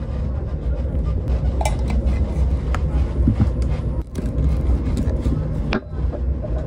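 Steady low rumble of a moving train heard inside the carriage, with a few sharp clicks and knocks as a portable espresso maker and a glass mug are handled on the table. The rumble drops out briefly twice, about four and six seconds in.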